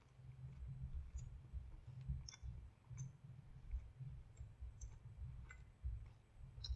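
Faint chewing of a crispy chicken sandwich: an uneven low thudding with scattered small wet mouth clicks, about one or two a second.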